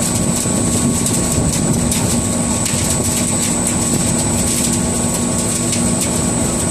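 Industrial sawdust burner running: a steady, loud, even rushing noise from its blower and flame, with a constant high whine over it.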